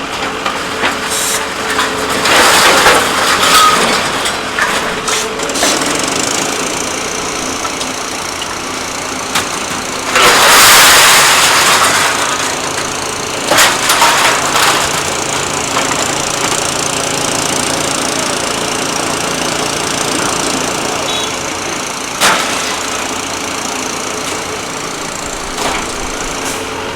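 An engine running steadily, with several bursts of harsh noise over it; the longest and loudest comes about ten seconds in, and a single sharp knock falls a little after twenty seconds.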